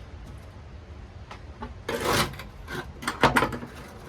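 Sound-deadening material being scraped and pried off a car's sheet-metal floor pan, with two louder scraping tears about two and three seconds in and a few small clicks between.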